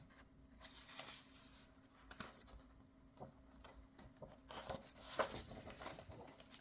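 Faint rustling of paper book pages being handled and turned, with a few light taps.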